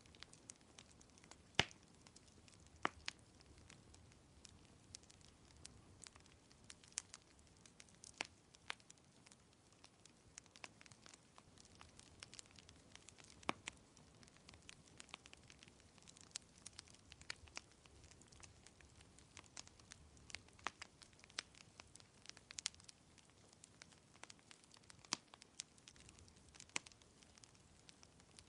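Wood fire crackling in a fireplace: irregular sharp pops and snaps, a few louder ones standing out, over a faint steady hiss.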